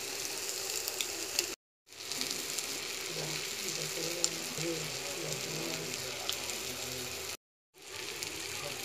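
Chopped onion, tomato and chili masala sizzling in hot oil in a kadai, with sharp clicks of a steel spoon against the pan as it is stirred. The sound cuts out completely twice, briefly.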